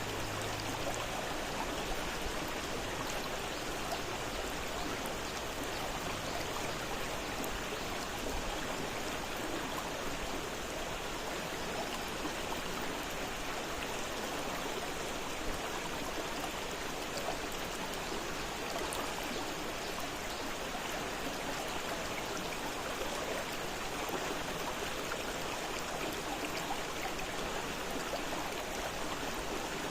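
Fast-flowing river water running steadily, an even, unbroken rush.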